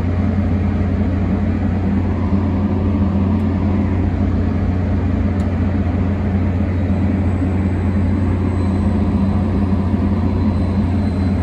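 A stationary train running with a steady low drone that does not change in pitch or level.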